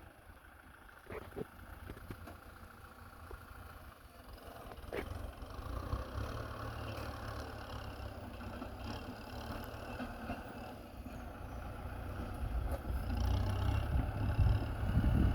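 Kubota M6040SU tractor's diesel engine running, a low rumble that grows steadily louder, loudest near the end.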